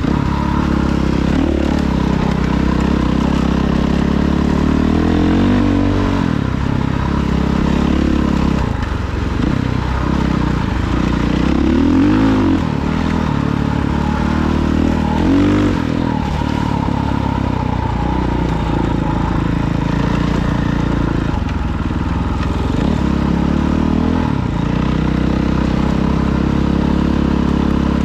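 Dirt bike engine running under way, revving up and easing off several times, with the pitch rising and falling about 6, 12 and 15 seconds in.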